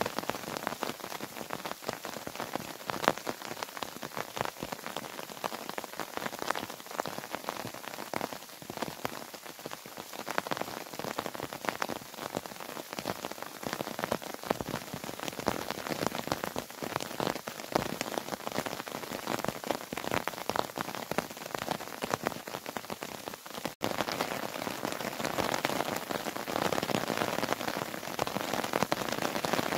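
Steady rain falling, with many separate drops ticking sharply close by. About two-thirds of the way through the sound drops out for an instant and comes back as a denser, steadier rain hiss.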